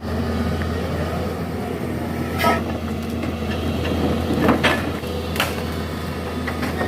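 Heavy recovery machinery's engine running steadily, with a few sharp metallic knocks, about 2½, 4½ and 5½ seconds in.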